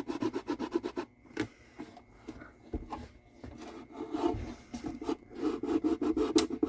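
Rapid, irregular scraping and rubbing of a tool working along the glued joint of a Gibson A1 mandolin's wooden back as it is separated from the body, thinning out in the middle and picking up again near the end; the glue is giving way easily.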